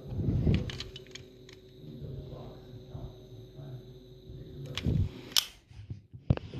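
Handling noise of toy cars being picked up and set down: a low knock with rustling about half a second in, scattered small clicks, and a sharp click at about five and a half seconds.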